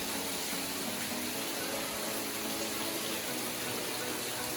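Steady rushing of a nearby waterfall, an even roar of falling water.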